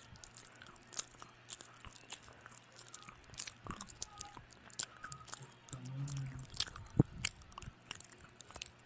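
Close-miked mouth sounds of a person eating: chewing with irregular wet clicks and smacks. A brief low closed-mouth hum comes about six seconds in, and a sharp click about seven seconds in is the loudest sound.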